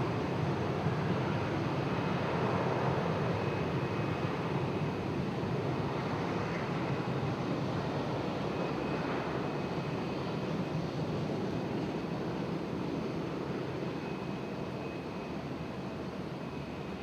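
Jet airliner engines running, a steady rumble with a faint high whine, slowly fading.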